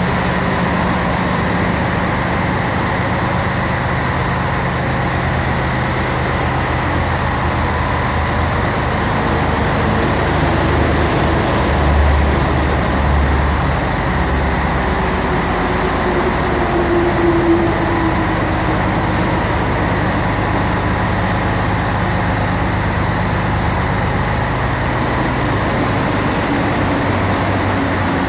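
Scania 112H truck's six-cylinder diesel engine running steadily, with a brief louder low swell about twelve seconds in.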